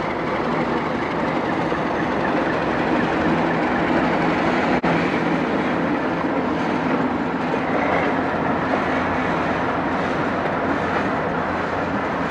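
Vintage ALCO diesel locomotives hauling a freight train, with a steady engine drone over running noise. A single sharp click comes about five seconds in.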